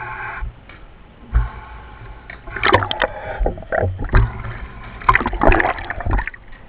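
Underwater diver's breathing with exhaust bubbles, two gurgling bursts about two and a half and five seconds in, over a steady low hum.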